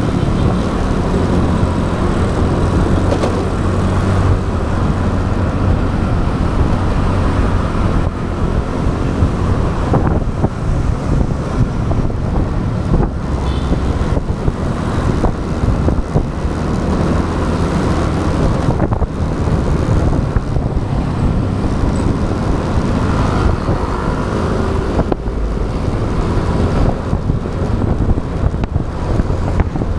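Motorbike engine running at riding speed, with wind buffeting the action camera's microphone and road and traffic noise around it.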